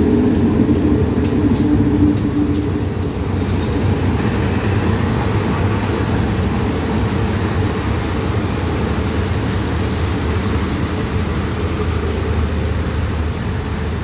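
Diesel train passing close by, with a quick run of sharp clicks in the first few seconds, then a steady low rumble.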